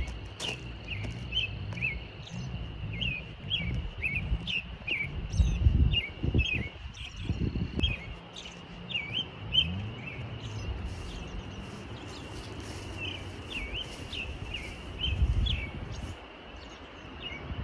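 Small birds chirping over and over in short, quick, gliding peeps, with low rumbles and thuds underneath.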